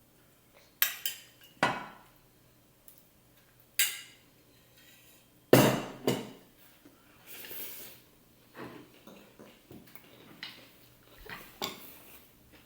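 A spoon clinking and knocking against a dish during a meal: several sharp knocks in the first six seconds, the loudest about five and a half seconds in, a brief scrape around seven seconds in, then lighter clicks.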